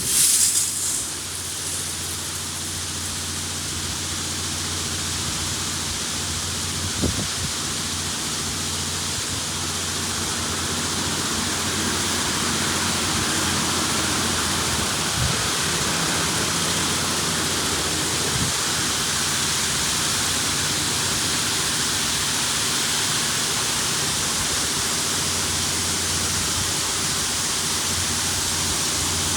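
LaserWash G5 touchless car wash spraying water jets onto a car: a steady, dense rushing spray that starts suddenly and builds a little in loudness, over a low, steady machine hum.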